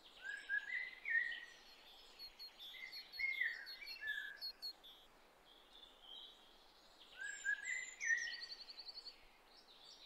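A songbird singing two phrases of quick chirping notes. The first starts right away and lasts about five seconds; the second comes about seven seconds in and ends in a fast trill.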